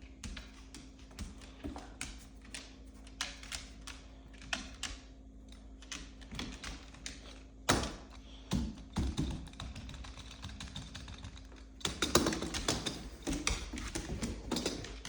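A golden retriever's paws tapping: scattered light taps and clicks, with a sharper knock about eight seconds in and a denser, louder run of taps from about twelve seconds on. A faint steady hum underneath stops about twelve seconds in.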